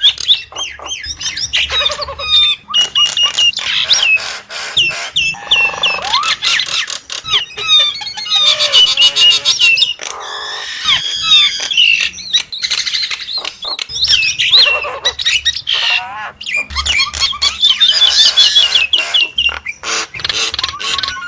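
Nias hill myna calling: a fast, varied string of loud whistled notes, clicks and harsh squawks, many short whistles repeated in quick runs.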